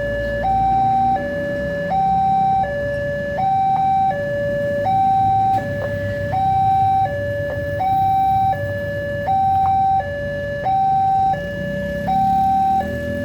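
Railway level-crossing warning alarm: an electronic two-tone signal alternating between a lower and a higher tone about every three-quarters of a second, warning that a train is approaching. A low rumble of road traffic runs underneath and swells near the end.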